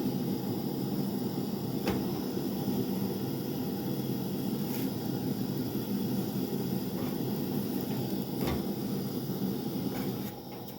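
A stove burner's flame runs with a steady low rush while a tortilla toasts directly on it. A few light clicks are heard, and the rush drops a little just before the end.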